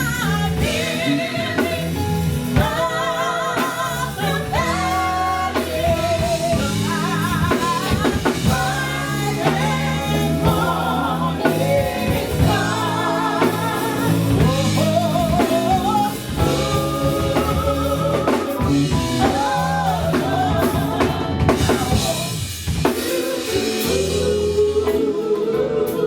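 Live gospel band mid-song: a lead singer with heavy vibrato, backed by drum kit and bass.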